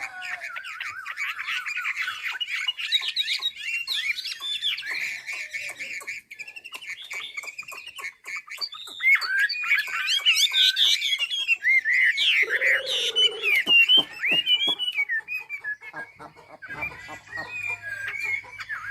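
Chim mi (silver-eared laughingthrush) singing a long, rapid, varied warbling song of quick gliding whistled notes, loudest in the middle, with one short lower note partway through. A faint low hum joins near the end.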